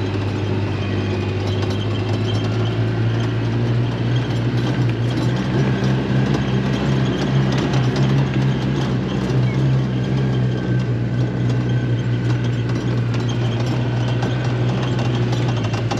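A vehicle engine running steadily at low speed, its hum growing a little fuller about five seconds in.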